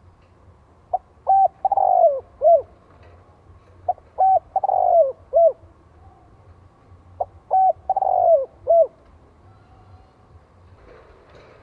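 Spotted dove (cu gáy) giving its crowing coo three times, a few seconds apart. Each phrase is two short notes, a longer falling note and a short closing note. It is the call used to provoke and lure wild males.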